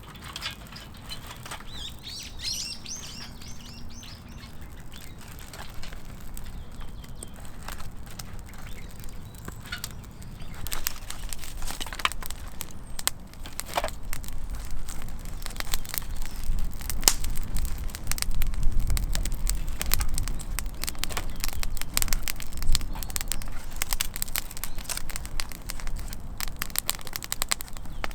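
Wood campfire crackling and snapping, the snaps coming thicker and louder from about halfway, over a low rumble. Birds chirp briefly near the start.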